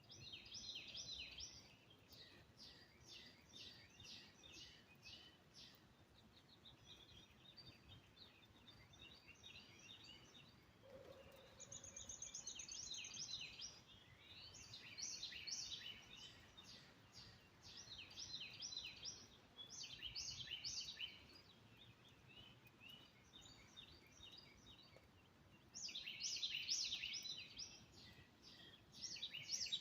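Songbirds chirping and singing in repeated bursts of quick, high notes, faint against a quiet outdoor background.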